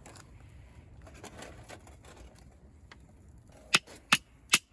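Faint low background, then three sharp clicks or knocks, a little under half a second apart, near the end.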